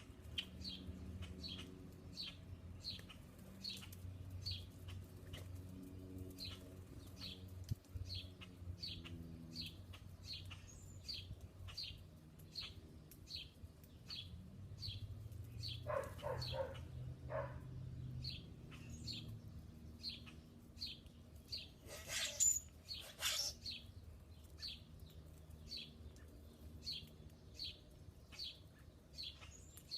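A small songbird chirping over and over in a steady series, about two chirps a second. Twice around the middle come a few louder, rougher bursts over the chirping. A faint low hum runs underneath.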